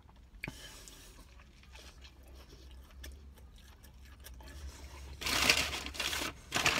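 Close-up chewing of a mouthful of hot dog sandwich, with faint crunches and mouth clicks. About five seconds in, a louder rustling noise comes twice.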